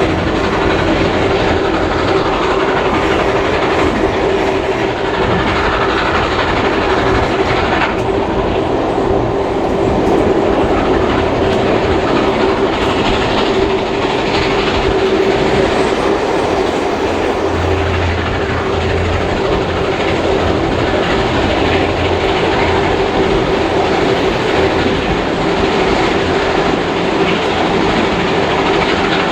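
Heritage passenger carriage rolling along the track behind a steam locomotive, heard from inside the carriage: a steady, loud rumble of wheels on rails with a steady hum underneath.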